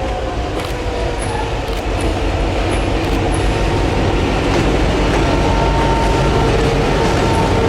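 A long freight train rolling past close by: steady rumble of the cars with a few clicks from the wheels over the rail and a faint thin squeal from the wheels.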